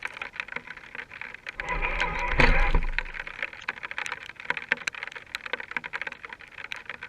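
Scale RC rock crawler working over rough ground: a brief swell of motor whine and rumble about two seconds in, amid scattered clicking and crackling like stones and twigs under the tyres.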